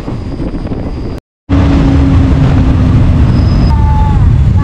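Steady running noise of a moving passenger train. It cuts out for a moment about a second in and comes back louder, with a steady hum for a while.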